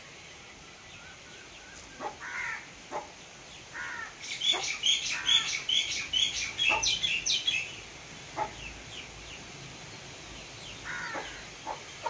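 Birds calling: a few short calls in the first four seconds, then a loud, rapid run of high chirps from about four to seven and a half seconds in, fading to scattered faint calls.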